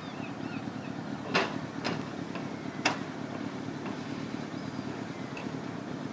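Steady outdoor background hum with a few sharp clicks or knocks, the loudest about a second and a half in and again about three seconds in.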